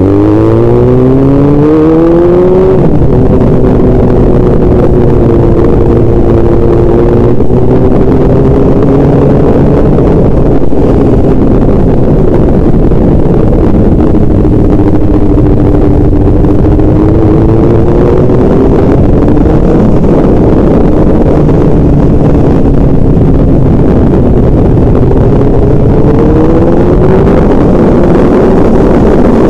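A motor vehicle's engine running under way over heavy road and wind noise. Its note climbs over the first few seconds, then holds fairly steady, rising briefly twice later on.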